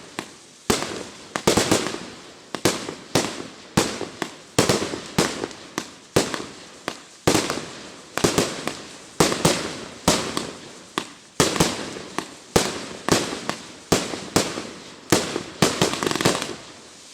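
A 1.2-inch, 100-shot Z-shape fireworks cake firing in a steady sequence, about two shots a second, each a cluster of sharp cracks. The volley stops shortly before the end.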